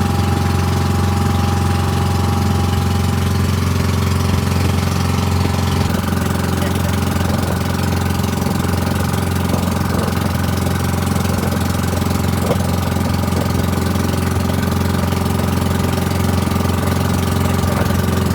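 The pump boat's single engine running steadily at a constant speed while under way.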